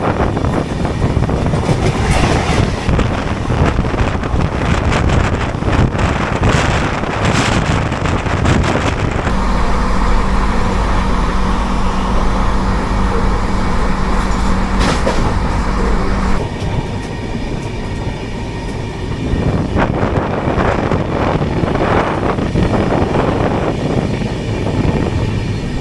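Passenger train running at speed, wheels clattering over the rail joints with a steady rumble and rush of air. A steady low hum with a deeper drone sets in about nine seconds in and cuts off suddenly about seven seconds later.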